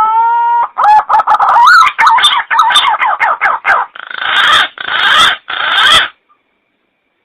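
Punai (green pigeon) calls played as a lure: a long rising whistled note, a run of quick wavering whistles, then three harsh rasping notes in quick succession.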